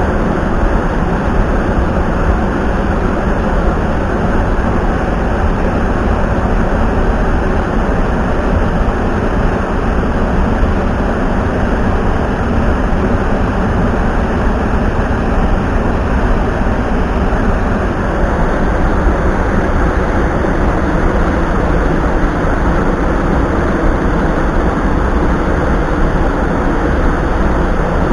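Steady, loud rushing of a mountain stream: water running over rocks, unchanging throughout.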